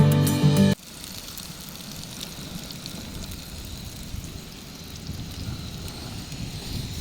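Acoustic guitar background music that cuts off abruptly under a second in, giving way to a steady outdoor hiss of wind and rustling, with a faint high steady whine running through it.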